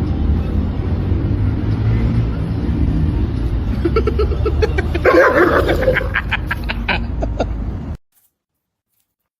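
A steady low rumble with a brief, louder pitched sound about five seconds in and a few light clicks around it. The rumble cuts off suddenly about eight seconds in.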